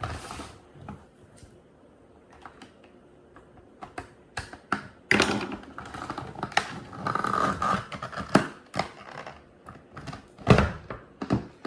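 Toy packaging being handled and pulled open by hand: scattered clicks, taps and crinkles, busiest a little past the middle.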